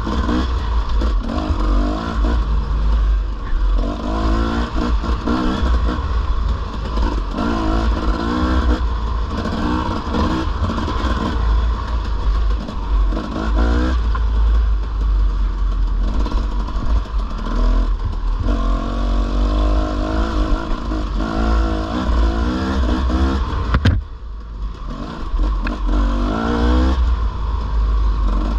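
Dirt bike engine on a trail ride, its pitch rising and falling as the throttle opens and closes, with wind rumbling on the microphone. The engine drops away briefly about 24 seconds in, then picks up again.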